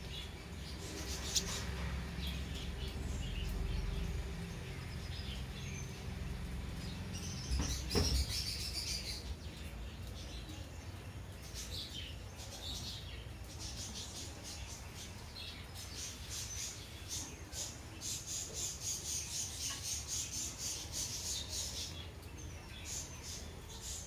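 Small bird chirping: scattered high chirps, then a fast run of several chirps a second for a few seconds near the end. A low rumble in the first seconds and a single knock about eight seconds in.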